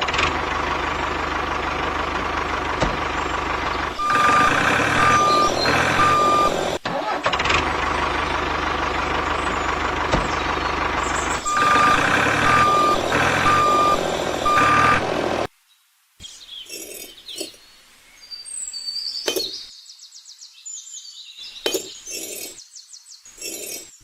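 Truck engine running steadily while a reversing alarm beeps in two short spells of three or four beeps. After about fifteen seconds the engine cuts off suddenly, leaving faint scattered clinks and short whistles.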